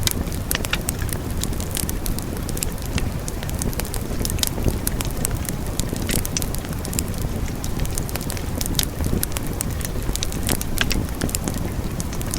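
Wood fire burning steadily with a low rumble and frequent sharp crackles and pops at irregular moments.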